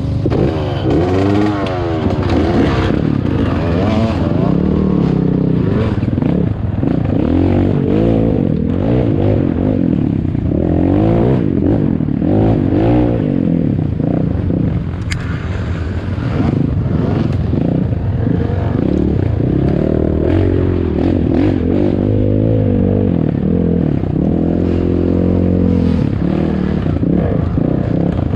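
ATAKI DR 250 enduro motorcycle engine running under load, revving up and falling back over and over, with clattering and knocks mixed in.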